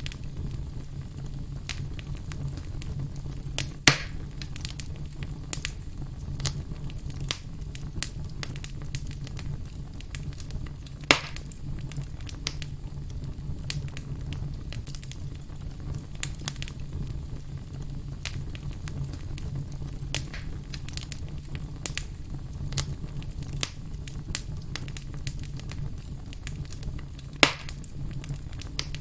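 Firewood burning, crackling with frequent small snaps over a steady low rumble. Three louder pops stand out, about four seconds in, around the middle and near the end.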